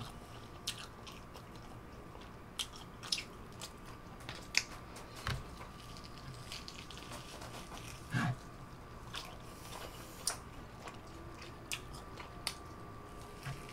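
A person biting and chewing meat torn off a whole roast leg of lamb: scattered soft mouth clicks and smacks over a faint steady hum.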